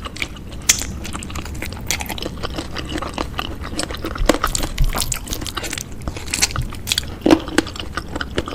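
Close-miked eating of bakso and spicy chicken feet: irregular chewing and biting, with many small wet clicks and crunches, a little louder about seven seconds in.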